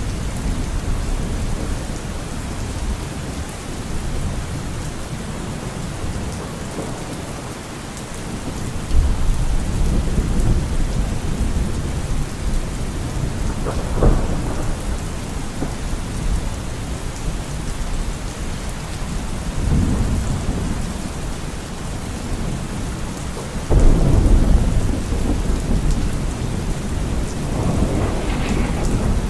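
Steady rainfall with thunder rumbling through it: low rolling surges come in about nine seconds in and again just before the last few seconds, with a sharper, shorter peal about halfway through.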